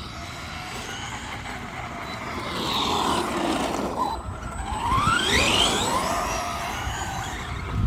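A 3S RC monster truck's electric motor whines over the rumble of its running gear, with a falling then rising pitch as it slows and accelerates. The loudest part is a whine climbing steeply in pitch about five seconds in.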